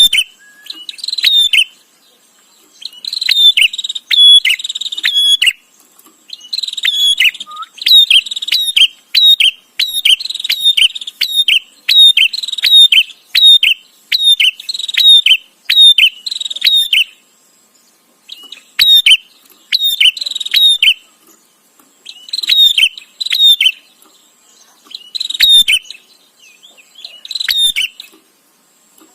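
Prinia (prenjak) calling rapidly and incessantly: runs of sharp chattering notes, several a second, in bursts of a few seconds with short pauses between.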